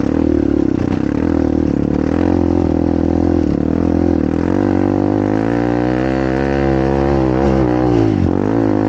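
Dirt bike engine running under throttle, its pitch steady at first, then rising and falling with the throttle from about halfway, with a brief dip near the end.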